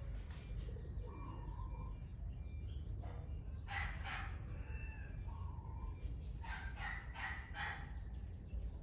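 Birds calling: short, harsh, repeated notes in two bursts, one about four seconds in and another of several notes near the end, over a steady low rumble.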